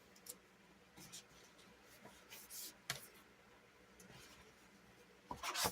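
Paper sticker sheets being handled: faint rustles and light taps, with a louder short scrape near the end.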